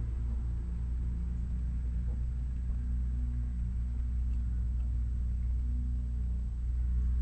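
Shelby GT350's V8 idling steadily, a low rumble, heard from inside the car; it gets slightly louder near the end.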